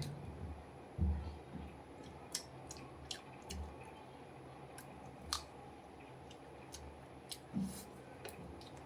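A person eating grilled chicken: chewing with scattered sharp mouth clicks and a few soft low thumps.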